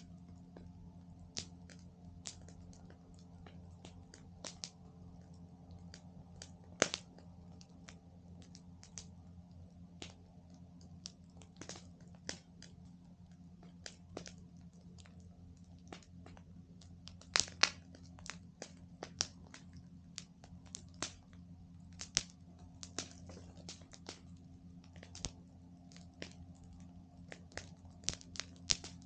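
Campfire crackling: burning wood giving off irregular sharp pops and snaps, a few of them much louder, over a faint steady low hum.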